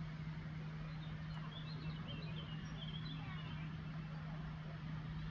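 A few faint bird chirps about two to three seconds in, over a steady low hum and background hiss.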